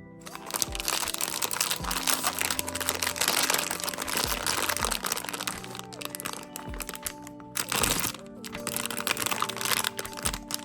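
Plastic blind-box packaging crinkling and crackling as it is handled and unwrapped by hand, over soft background music with held notes. The crinkling runs almost throughout, with a short break near eight seconds.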